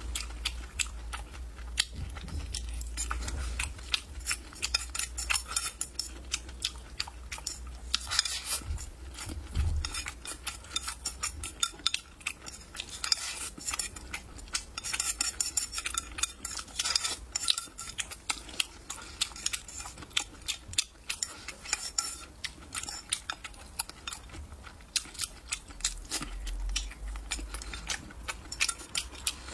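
Close-miked eating: chewing of chewy braised pork intestines, with chopsticks clicking against a ceramic bowl. The whole stretch is a dense run of short, wet clicks.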